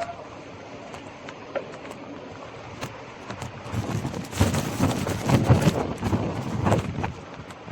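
Gravel bike riding along: steady tyre and wind noise on the microphone, turning into a rough, irregular rattle from about four seconds in that eases off near the end.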